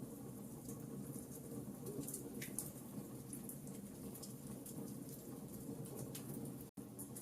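Burning logs crackling: a steady low rush of flame with scattered sharp pops and snaps. The sound cuts out completely for an instant near the end.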